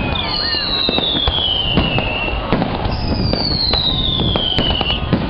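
Fireworks display: a continuous run of booms and crackling bursts, with two long whistles that fall in pitch, one starting right at the beginning and one about three seconds in.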